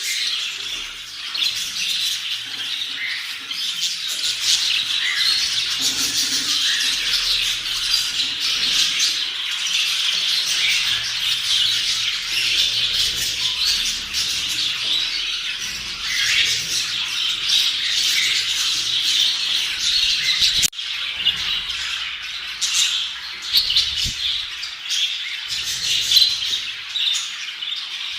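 Many budgerigars chattering together: a continuous, dense, high twittering of overlapping calls.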